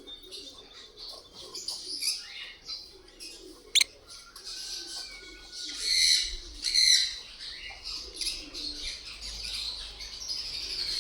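Small pet parrots kept as love birds chirping and chattering in a steady run of short calls, with two louder bursts of calls about six and seven seconds in. A single sharp click comes near four seconds.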